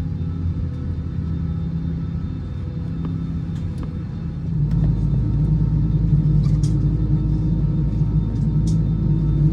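Cabin noise of an Airbus A320-214: a steady low engine rumble and hum that steps up and grows louder about halfway through as engine thrust is increased, typical of the jet beginning to taxi. A few faint light ticks sound on top.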